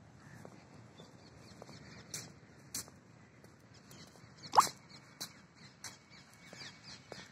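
Birds chirping in scattered short calls over a faint outdoor hush, with one much louder call a little past halfway.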